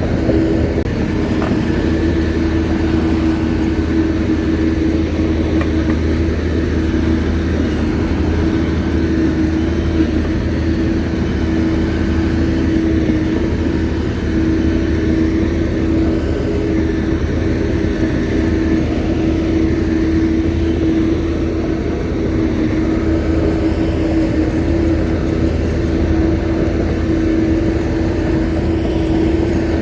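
Shantui bulldozer's diesel engine running steadily, with a constant hum.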